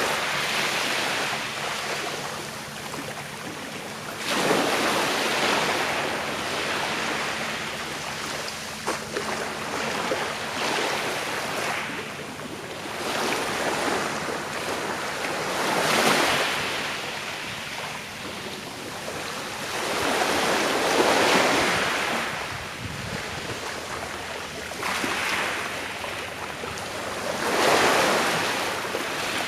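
Small sea waves breaking and washing on a shore, each surge swelling and fading every few seconds, over a steady hiss of surf.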